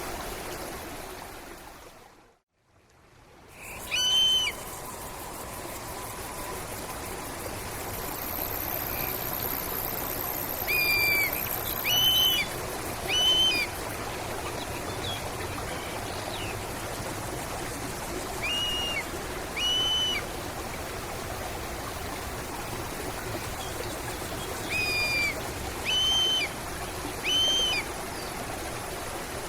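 Running stream water with a bird giving short, arched calls, repeated in twos and threes. About two seconds in, the water sound fades out almost to silence and comes straight back, like a splice in a loop.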